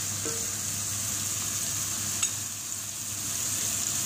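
Chopped onion and tomato frying in oil in a non-stick frying pan, a steady sizzle, while a wooden spatula stirs them. A single light click sounds about two seconds in.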